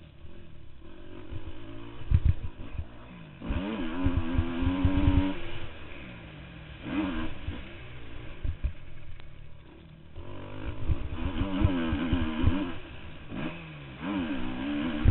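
Motocross motorcycle engines revving and accelerating in repeated bursts, the pitch climbing and dropping through the gears, with quieter gaps between passes. The loudest runs come at about four to five seconds in and again at about eleven to thirteen seconds.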